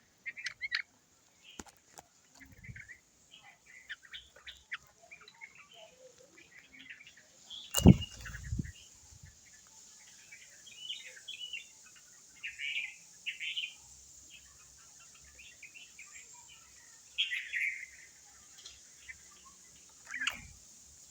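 Birds chirping, with short calls scattered throughout. A loud thump comes about eight seconds in and a softer one near the end.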